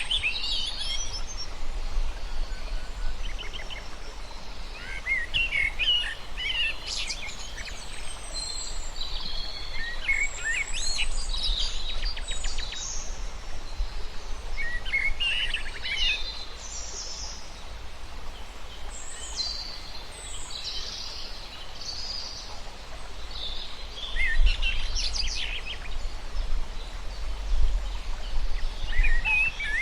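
Several birds calling and chirping in short bursts over a steady background hiss, with a low rumble coming in about three-quarters of the way through.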